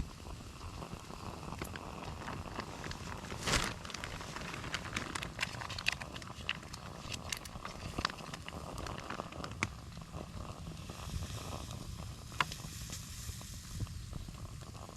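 Light clicks and knocks of metal camp cooking gear being handled, over a steady low rumble, with a heavier thump about three and a half seconds in and a soft hiss near the end.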